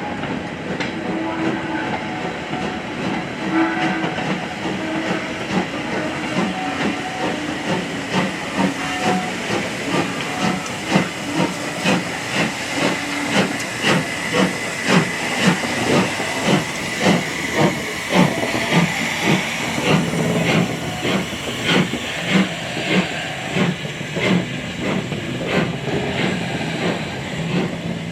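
Steam locomotive working, with steam hissing, then a regular run of exhaust beats starting about a third of the way in, at roughly one and a half a second.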